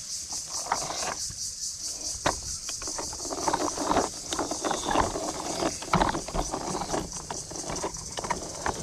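A steady, high, pulsing insect drone with scattered knocks and clattering over a low rumble.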